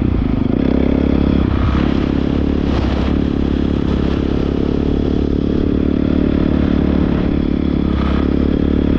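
Honda CRF450R dirt bike's single-cylinder four-stroke engine running steadily at an even pitch.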